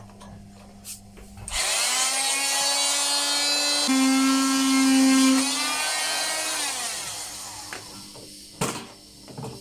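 Power tool cutting open a welded plastic washing-machine tub. Its motor whine rises as it spins up about a second and a half in, holds steady with a rasping hiss, then falls away as it winds down. A sharp knock follows near the end.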